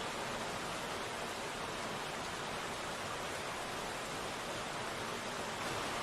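Steady rain falling, a constant even hiss with no separate drops standing out.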